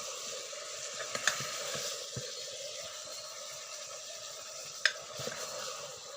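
Chicken and chopped tomatoes sizzling in hot oil in a pan while being stirred, with the spoon knocking sharply against the pan twice.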